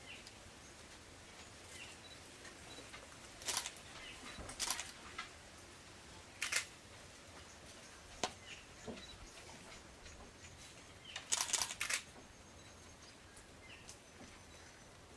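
A few short, sharp clicks over a quiet background, single ones spread out and then a quick run of several together near the end.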